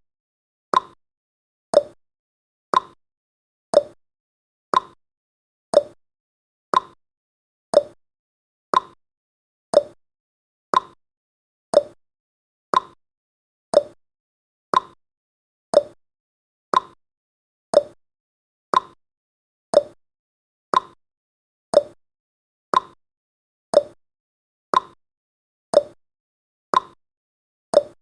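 Clock-style ticking of a countdown timer's sound effect: one sharp tick each second, alternating slightly between a higher tick and a lower tock.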